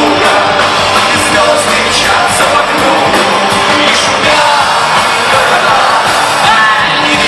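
Loud live rock music: a band playing with a voice singing over it.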